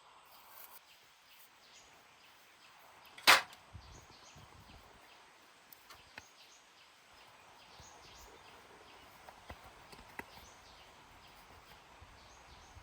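A single loud, sharp knock about three seconds in, followed later by a few faint clicks and ticks over low outdoor background.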